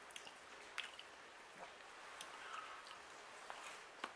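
Soft, faint chewing of a mouthful of peanut butter oat cookie, with a few small mouth clicks.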